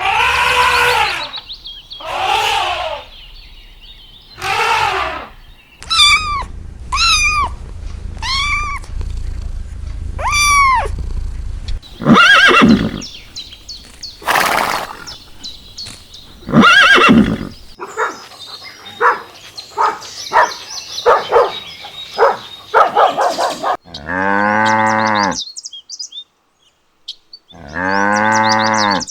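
A run of different animals calling one after another: drawn-out falling cries, four short rising-and-falling calls, a fast run of short chattering calls, and two long low bleat-like calls near the end.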